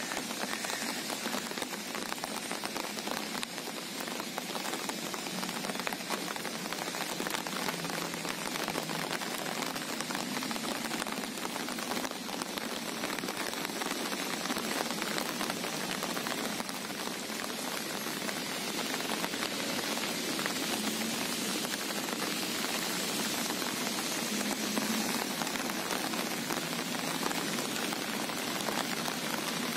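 Steady rain falling: a dense, even hiss of countless small drop impacts.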